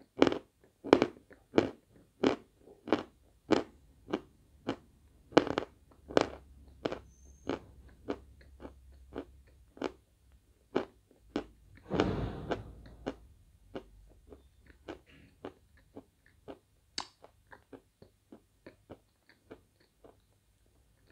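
Crunching chewing of a lump of Svetogorye edible chalk: sharp crunches about two a second, loud at first and growing fainter as the piece is ground down, with one louder, longer crunch about twelve seconds in.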